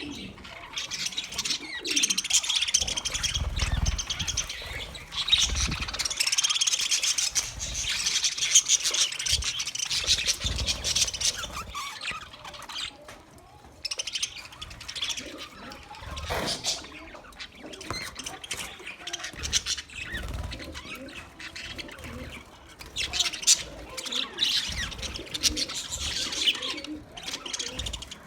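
A flock of budgies chattering and chirping: a dense run of warbles and sharp chirps that thins out around the middle and picks up again near the end.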